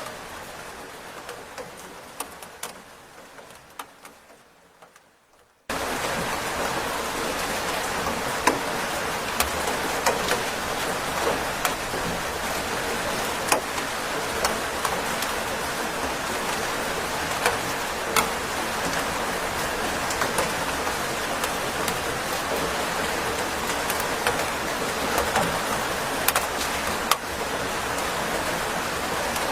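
Rain with scattered single drops fading away over the first five seconds or so. A steady, even rain then starts suddenly and keeps on, with occasional louder drop taps.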